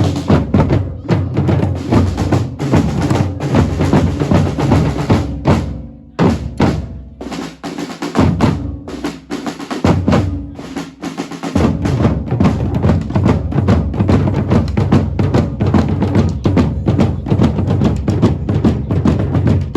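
Drum-led music with fast, dense drumbeats. The deep drums drop out about six seconds in and come back strongly after about eleven and a half seconds.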